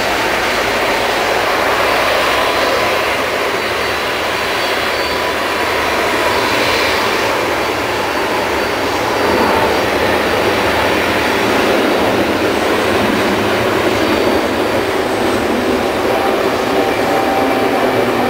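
Boeing 777-200's twin turbofan jet engines running, a loud steady rush of jet noise with a faint high whine over it.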